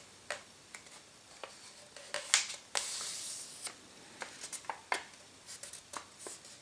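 A sheet of paper being folded and pressed down by hand into a crease: scattered crisp crackles and ticks, with a longer rustle about three seconds in.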